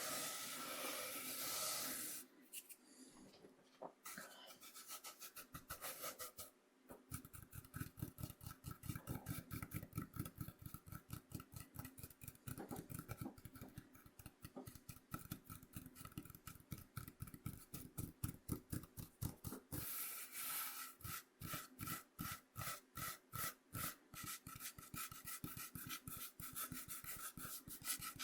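Coarse cornmeal scraped across a bamboo cutting board. A continuous scratchy scrape in the first couple of seconds gives way, from about a quarter of the way in, to quick rhythmic back-and-forth strokes of about three or four a second.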